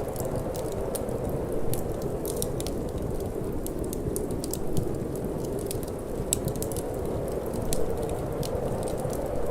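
Wood fire burning in a fireplace, with frequent small crackles and pops over a steady low rush of wind.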